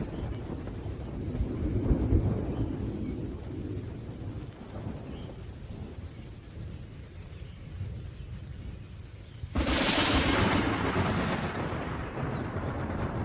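Thunderstorm: low rolling thunder fading away, then a sudden sharp thunderclap about two thirds of the way in that rumbles on and slowly dies down, with a steady hiss of rain underneath.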